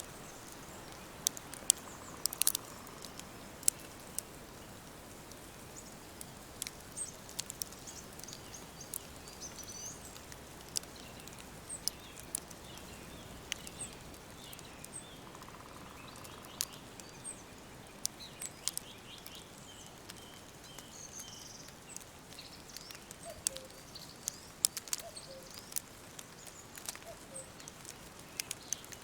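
Woodland ambience: small birds chirping in short calls and quick series of notes over a faint steady hiss, with sharp irregular crackles scattered throughout.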